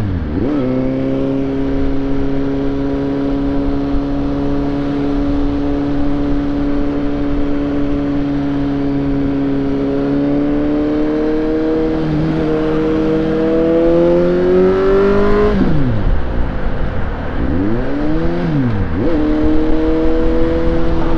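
Suzuki GSX-S750 inline-four engine under way. It runs steadily, then climbs in pitch under acceleration, drops sharply about 15 seconds in, rises and falls once more, and settles back to steady running. A steady rush of wind noise sits underneath.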